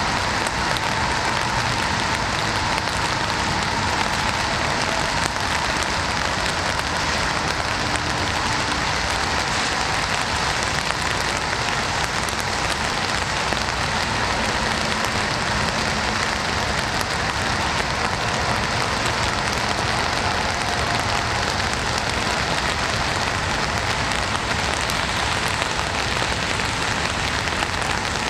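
Steady rain falling on a surface, an even, unbroken hiss of many drops.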